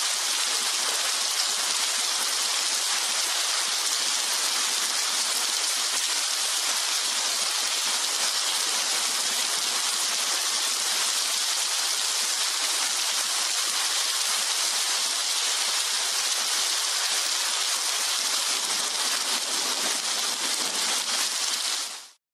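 Rain falling steadily, an even hiss with no thunder, cutting off suddenly near the end.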